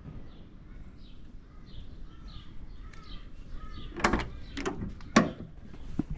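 A bird chirping repeatedly in short phrases, then three sharp clunks about half a second apart near the end, the last the loudest.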